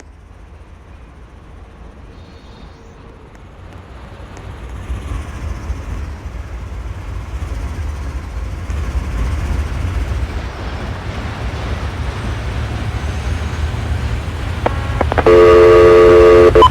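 Freight train approaching, a low rumble growing steadily louder, then the locomotive's air horn blows a loud multi-note chord about a second and a half before the end.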